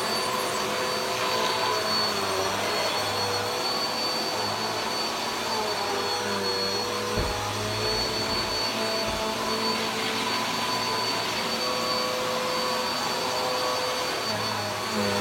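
Carpet vacuum cleaner running steadily while being pushed back and forth over carpet; its motor pitch dips and recovers a little as it moves. A few low thumps come about halfway through.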